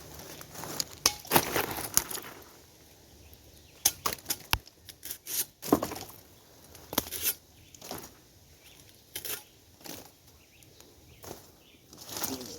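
Irregular knife chops and snaps with rustling, as wild pineapples are cut and their spiny leaves cleaned off: scattered sharp strokes, a cluster of them about a second in and more spread through the rest.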